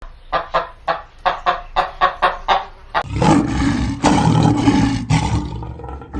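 An animal calling: a quick run of short pitched calls, about four a second, then, about three seconds in, a loud, long, rough roar.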